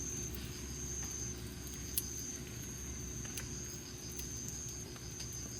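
Wood campfire crackling, with scattered sharp pops (the loudest about two seconds in), over a steady high-pitched insect chirr.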